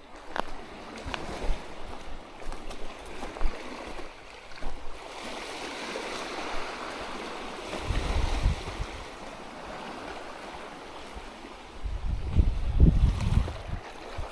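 Surf washing on the shore under steady wind, with gusts buffeting the microphone around the middle and again near the end.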